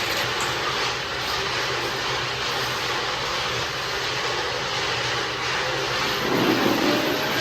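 Steady roar of workshop machinery running, with a constant hum underneath. Near the end a motor's whine starts to rise in pitch.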